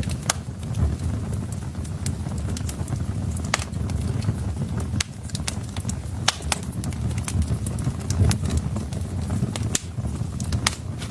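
Wood fire burning in a fireplace: irregular sharp crackles and pops from the burning logs over a steady low rumble of flames.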